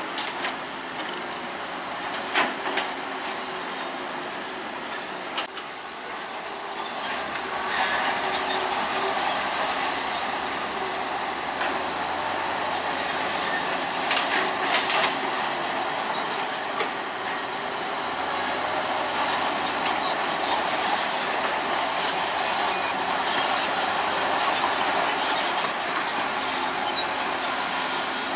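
Crawler bulldozer working: engine running under load with its steel tracks clanking, scattered sharp metallic clicks over a dense mechanical noise that grows louder about eight seconds in.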